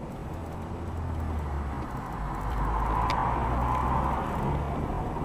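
Steady engine and road noise of a car driving, with the noise growing louder through the middle stretch and a single short click about three seconds in.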